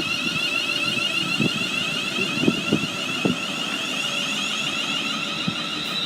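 Class 350 Desiro electric multiple unit pulling away, its traction inverters giving a steady high multi-tone whine with a rapidly repeating warble, and a few low knocks from the wheels about halfway through.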